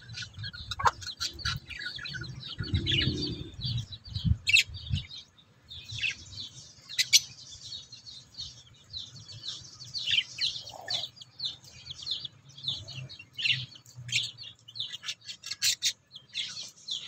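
An African lovebird chirping in many short, high calls, on and off throughout, with a low rumble underneath for the first five seconds or so.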